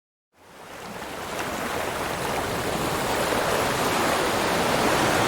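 Steady rushing water noise, like surf, fading in from silence and growing gradually louder.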